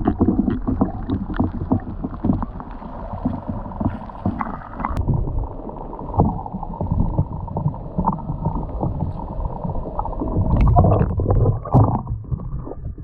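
Water sloshing and slapping against a fishing boat's hull on a choppy sea, with irregular knocks throughout and a louder stretch near the end.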